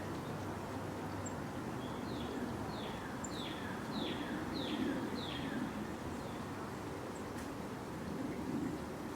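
A bird singing a run of about six clear downslurred notes, evenly spaced, about two seconds in. Under it is a steady low outdoor rumble.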